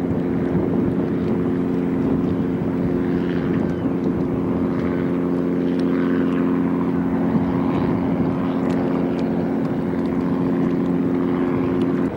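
Boat engine running steadily, a low even hum with a noisy wash of sound behind it.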